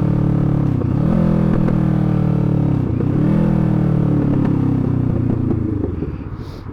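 Sport motorcycle engine pulling through the gears, its pitch climbing and then dropping at each upshift, with sharp pops from the exhaust around the shifts. The revs fall away near the end as the rider eases off.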